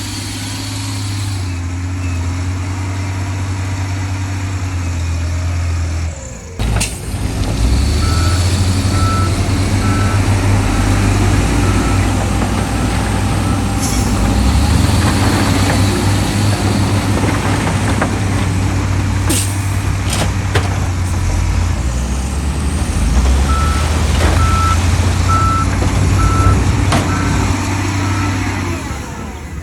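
Heavy diesel engines of dump trucks and a bulldozer running under load, with a reversing alarm beeping in two spells, near the start and again near the end. The sound drops out briefly about six seconds in.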